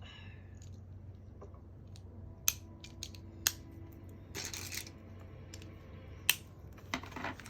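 LEGO bricks being handled and snapped together. There are three sharp plastic clicks, with a brief rattle of pieces between the second and third, and a few lighter clicks near the end, over a steady low hum.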